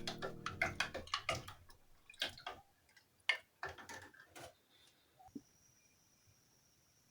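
Music fading out, then a quick run of irregular clicks and taps for about four seconds, the loudest one about three seconds in, before it goes quiet.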